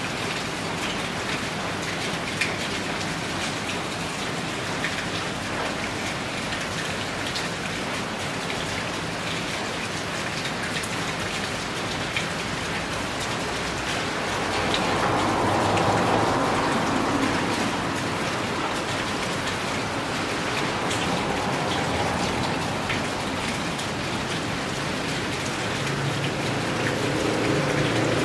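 Steady rain falling, with scattered drips. It swells louder for a few seconds around the middle, and a low hum joins near the end.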